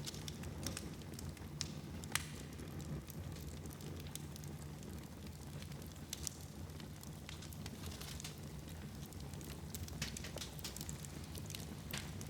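Wood fire in a fireplace crackling, with irregular sharp pops over a steady low rush of flames; the loudest pop comes about two seconds in.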